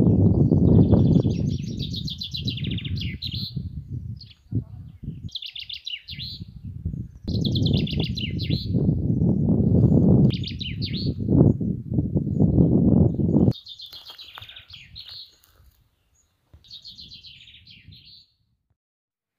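A songbird singing short, repeated trilling phrases about once a second, over a loud low rumble that cuts off abruptly about two-thirds of the way through, after which the song continues more faintly.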